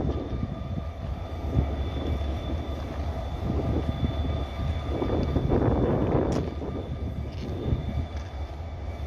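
Diesel locomotive engine running steadily, a low hum with a faint steady whine over it, and one brief sharp click about six and a half seconds in.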